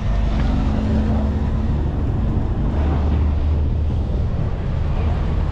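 A car engine idling steadily, with a continuous low hum.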